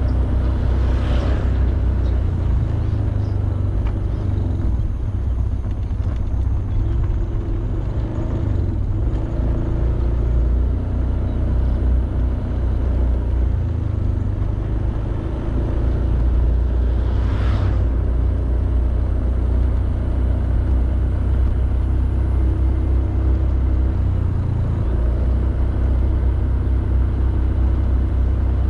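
Honda Beat 110cc scooter riding steadily, its small engine running with a constant low rumble of engine and road noise. Two brief whooshes pass, about a second in and again about 17 seconds in.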